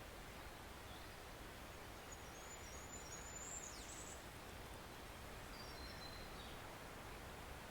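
Faint, steady rush of a woodland stream, with a small bird's thin, high chirps over it: a quick twittering run in the middle and a shorter one later.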